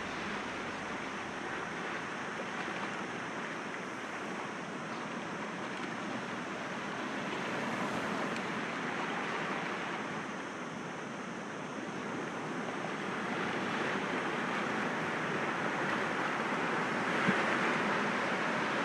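Sea waves breaking gently against rocks: a continuous wash of surf that swells and eases slowly, building toward the end, with one brief sharp sound near the end.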